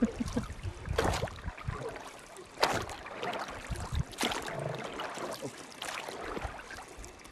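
River water splashing and lapping in regular strokes, about one every second and a half, over a steady hiss of moving water.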